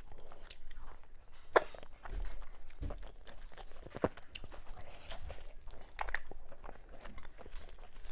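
Close-miked mouth sounds of someone eating assorted cow meats with okra soup and fufu: wet chewing and biting with irregular sharp crunches and clicks, the loudest about one and a half seconds and four seconds in.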